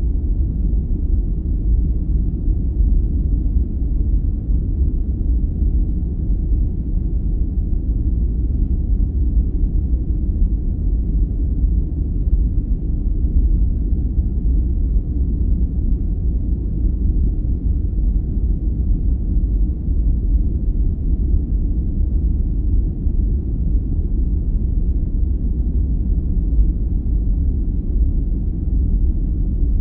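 Steady sleep-aid noise, sold as white noise but deep and rumbling, with almost no high hiss, unchanging throughout.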